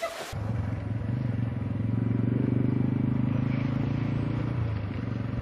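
An engine running steadily with a low, even drone, a little louder in the middle.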